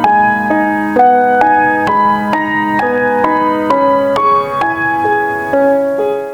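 Background music: a piano playing a calm melody with notes struck about twice a second.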